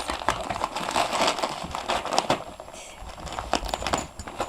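Wrapping paper crinkling and crackling in irregular bursts as dogs rip open Christmas presents.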